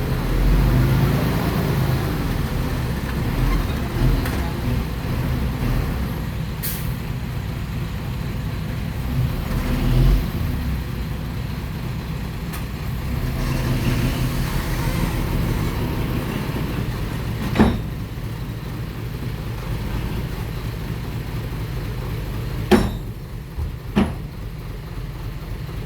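Heavy diesel engine of earthmoving equipment running steadily, with a few sharp metallic knocks in the second half.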